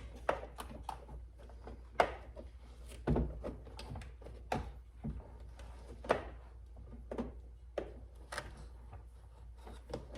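Irregular plastic clicks and knocks as a Fiat 500 inside door panel and its plug-in connectors are handled and fitted, about a dozen short sharp ones with a louder knock about two seconds in.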